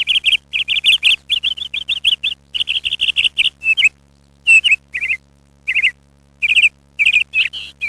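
Bird chirping: quick runs of short, high chirps, about five a second, breaking after about four seconds into separate clusters with short gaps. A faint steady low hum runs underneath.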